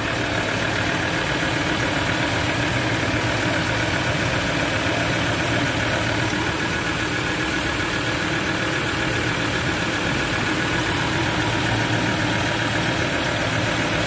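Ford Ranger 3.2 five-cylinder diesel idling steadily, with a grating noise from the front belt drive. The mechanic traces it to a worn alternator overrunning clutch pulley and its bearing.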